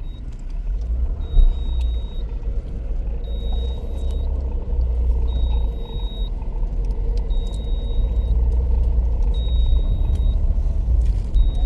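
Low, steady rumble of a motor vehicle on the move. A thin high electronic beep repeats about every two seconds, and there is a single knock early on.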